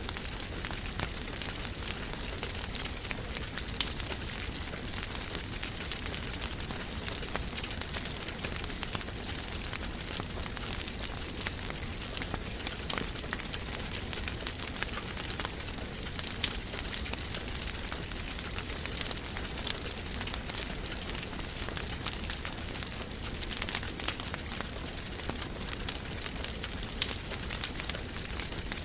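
Wood fire crackling in a fireplace: a steady hiss dotted with many small snaps, and a few louder single pops, about four seconds in, around sixteen seconds and near the end.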